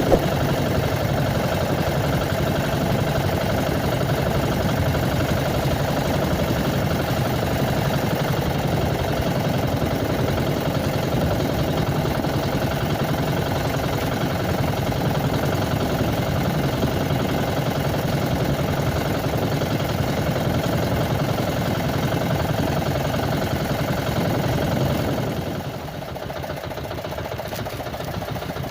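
A small boat engine running steadily with a constant drone. It drops to a quieter note about 25 seconds in.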